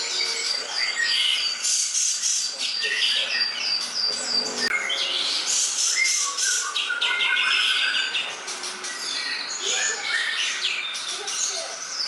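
Green leafbird (cucak ijo) singing: a fast, unbroken run of varied high chirps, trills and whistles that keeps changing phrase.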